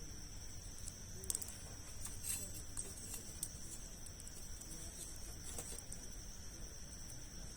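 Campfire of large logs crackling, with a few sharp pops about a second, two seconds, three and a half seconds and five and a half seconds in, over a steady high insect trill.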